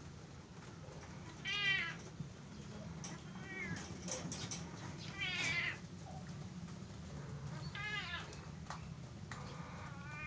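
Domestic cat in heat yowling to mate: about five drawn-out meows that rise and then fall in pitch, a second or two apart, the loudest about five seconds in.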